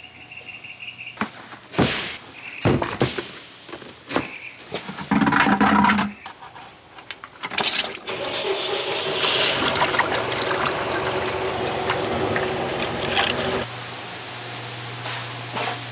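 Oxy-acetylene cutting torch being handled and run for brazing: clicks and metal knocks, then about eight seconds in a steady rushing hiss of the torch that lasts about six seconds before dropping away.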